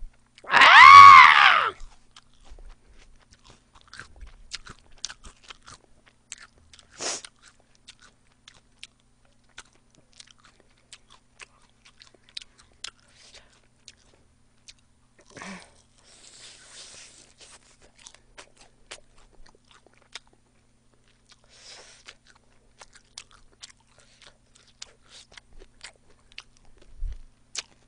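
Close-miked biting and chewing of crispy fried chicken wings: scattered small crisp crackles and clicks from the fried coating. A short high-pitched vocal squeal about a second in is the loudest sound.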